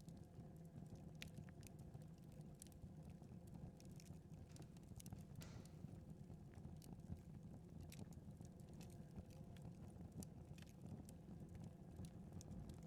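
Faint crackling of a wood fire in a fireplace: sparse, irregular pops and snaps over a low steady hum.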